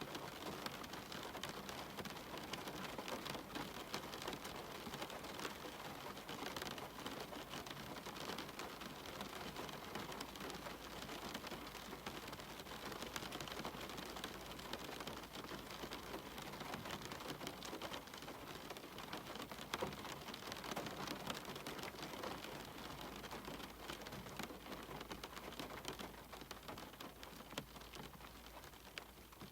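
Steady rain falling, with many small separate drop ticks.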